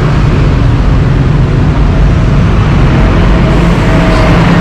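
Steady rumble of street traffic, loud and low, with no single event standing out.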